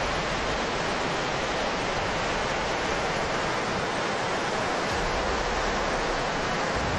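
Flash-flood water rushing, a steady, even noise with no let-up.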